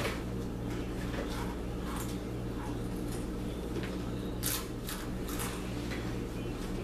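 Takis rolled tortilla chips being crunched and chewed: a few short, scattered crunches, the clearest a little past the middle, over a steady low hum.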